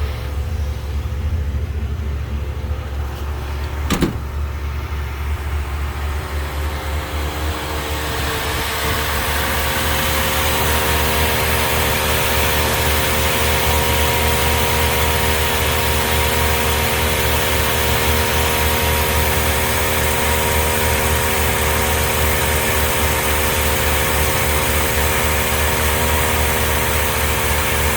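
A 1987 Dodge D150's carbureted 318 V8 idles steadily, a high-mileage engine that still runs fairly well. There is a sharp click about four seconds in. From about eight seconds in the engine sound grows louder and fuller and then holds steady.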